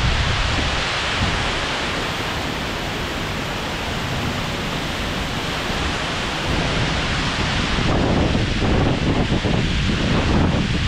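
Heavy rain pouring down steadily, with wind gusting on the microphone; the downpour grows a little louder about two-thirds of the way through.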